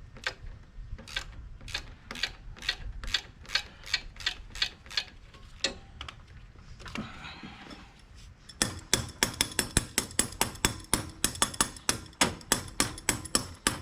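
Socket ratchet clicking as it is worked back and forth on a battery terminal bolt, set to loosen. The clicks come about two or three a second at first, then, after a brief rustle about six seconds in, faster and louder at about five a second from about nine seconds.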